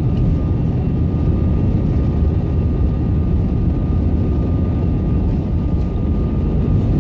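Airbus A320 engine and airflow noise heard inside the cabin: a steady low rumble with a thin, constant whine above it.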